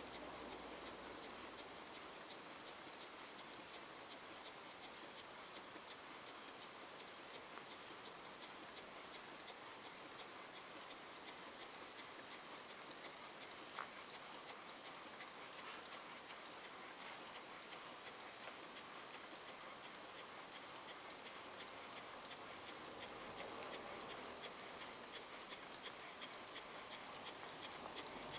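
Model beam engine running on compressed air at under 2 psi: a faint, regular light ticking over a soft airy hiss. Its bearings have been tightened and aligned, so it runs smoothly without heavy knocking.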